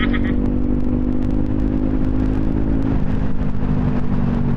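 Bajaj Pulsar NS200's single-cylinder engine running at a steady, unchanging pitch through an aftermarket twin-pipe exhaust, loud enough to draw a policeman's attention for the noise.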